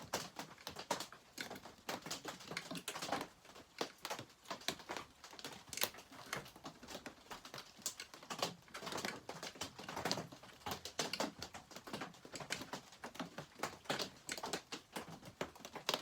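Irregular clicking and tapping of hand tools against metal chainsaw parts during reassembly, many small knocks at uneven intervals.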